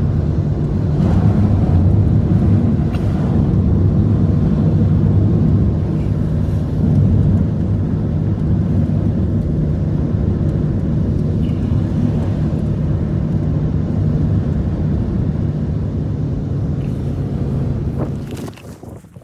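An engine running at a steady speed, with a constant low hum, that cuts off sharply near the end.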